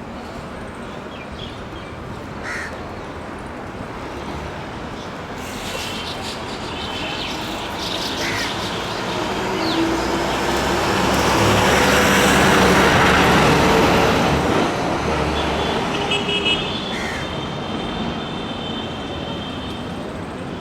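Road traffic: a steady noise of passing vehicles, swelling to its loudest about halfway through as a vehicle passes close, then easing off.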